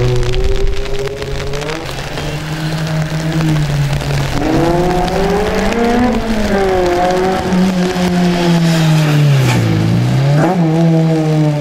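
Small rear-engined racing saloon's engine revving up and down as the car accelerates and brakes through a cone slalom on a wet track, the pitch climbing, falling away and then rising again, with a quick sharp throttle blip near the end.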